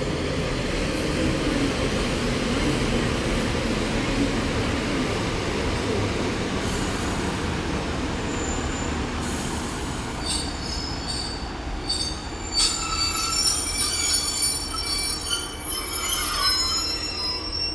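A Class 143 Pacer diesel multiple unit coupled to a Class 150 running into the station: a steady rumble of engines and wheels, then from about halfway in, repeated high-pitched squeals from the wheels and brakes as it slows.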